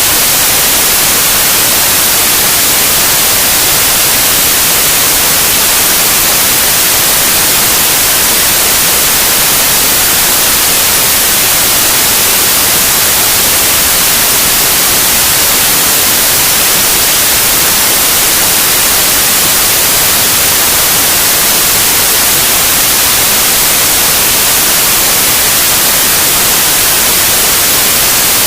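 Loud, steady white noise: an even, unchanging hiss, strongest and brightest in the highest pitches.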